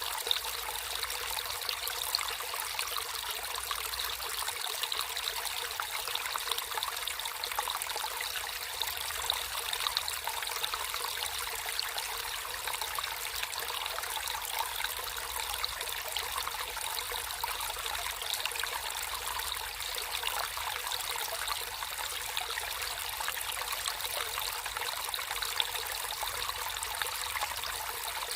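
Water flowing and trickling in a steady babble.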